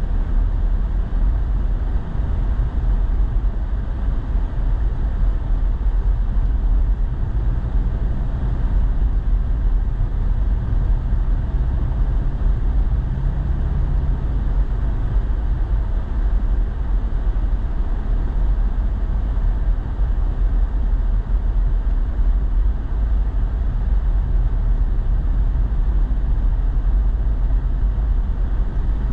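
Steady low rumble of a truck's engine and tyres, heard from inside the cab while driving.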